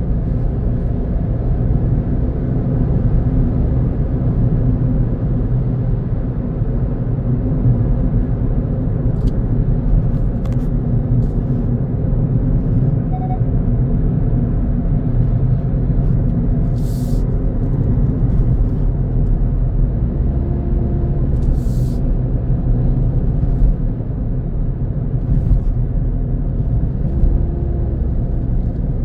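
Car driving on a road: steady low rumble of engine and tyres, with a couple of brief hissy noises around the middle.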